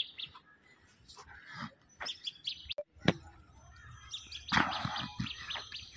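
Small birds chirping in short, high calls, with a sharp click about three seconds in and a rush of broad noise in the second half.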